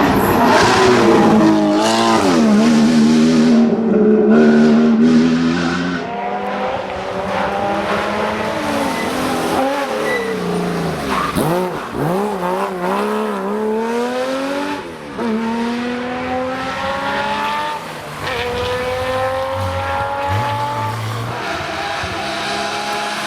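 Porsche rally car's flat-six engine driven hard, revving up and down as it goes through the gears. In the second half the pitch climbs in long rising pulls, each cut short by an upshift.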